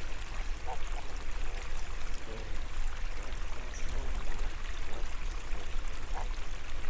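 Water flowing and trickling in a small garden waterway, a steady rushing hiss with a low rumble underneath.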